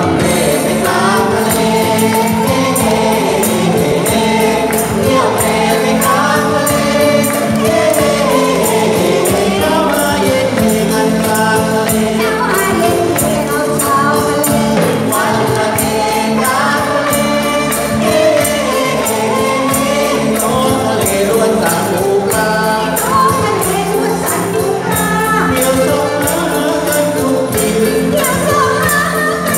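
Thai ramwong song sung in unison by a group of singers over a band accompaniment, with a steady percussion beat.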